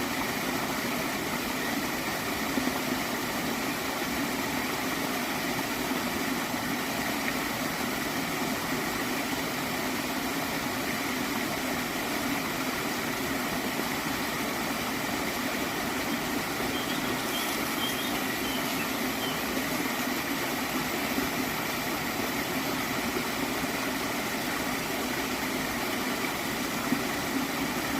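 Small stream of water flowing and gurgling steadily.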